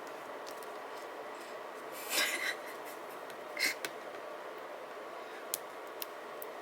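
Hands handling paper and stickers at a desk over a steady low hiss: a short crinkly rustle about two seconds in, another brief one near the middle, and a few light ticks near the end.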